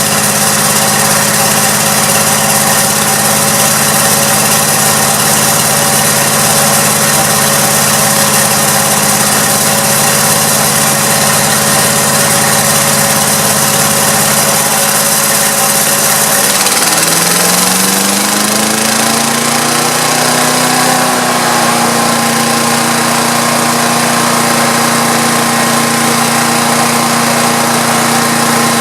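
Small single-cylinder engine of a Craftsman 5 HP chipper shredder running steadily after a carburetor repair. About two-thirds of the way through, its speed dips, climbs back and settles a little faster.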